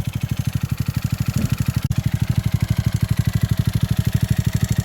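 Honda Grom's 125cc single-cylinder four-stroke engine idling with a steady, rapid beat and a loud ticking noise that a valve adjustment has not cured. The owner first suspected rod knock but hears it more as ticking than knocking.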